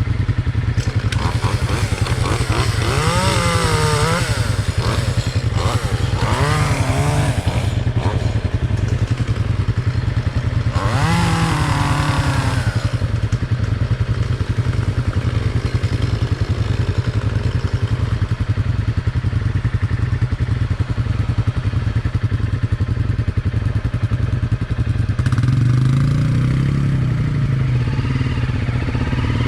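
Honda CRF250L Rally's single-cylinder four-stroke engine running steadily under way, its revs briefly rising and falling three times. It gets louder about 25 seconds in as it picks up speed.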